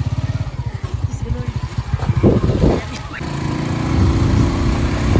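A small engine running with a rapid, even pulsing beat. Louder bursts come about two seconds in, and then it settles into a steadier hum.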